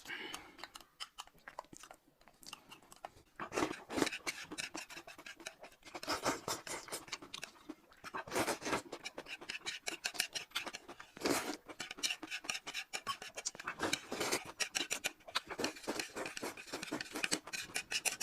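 Close-miked eating sounds: people chewing and crunching food, a dense run of quick wet clicks and crackles with a few louder swells.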